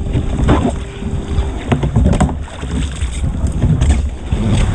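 Kayak and paddle splashing in a swimming pool: irregular sloshing water with several sharp splashes, and a faint steady hum during the first second and a half.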